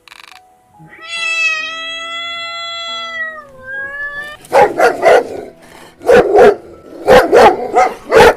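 A cat gives one long, drawn-out meow that dips and then rises at the end, followed by a dog barking loudly in quick runs of two or three barks. Soft background music plays under the first second.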